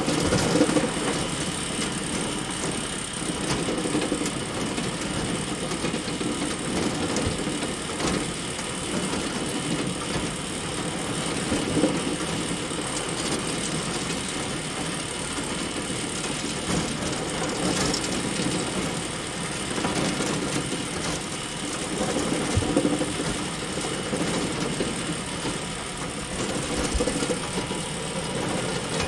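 Hay bale elevator running steadily: a continuous mechanical clatter of the chain conveyor and its drive, with a few scattered knocks.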